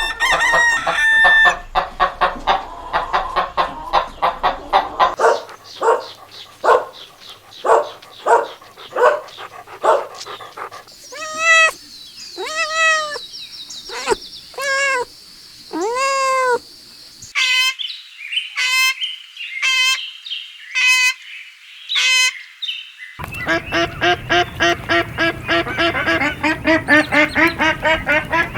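Domestic poultry calling in a run of separate clips. First comes a rapid stream of short calls. Then come several long calls, each rising and falling in pitch, about a second apart. Then shorter calls about once a second, and finally a dense chatter of many birds calling at once.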